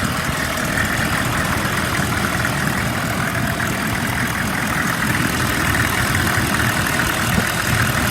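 Chevy 3500's 6.5-litre V8 diesel idling steadily, warmed up after running for half an hour or more.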